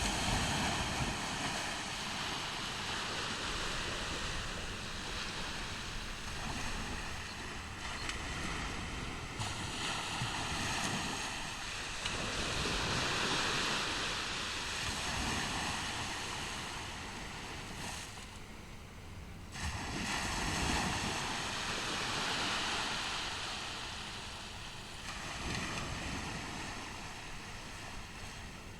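Ocean surf on a beach: waves breaking and washing in, a continuous rush that swells and eases every several seconds.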